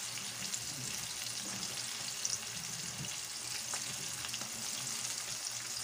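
Battered pork pieces sizzling and crackling steadily as they are fried a second time in hot oil to turn them crunchy, with the occasional scrape and click of a plastic slotted spatula stirring them in the wok.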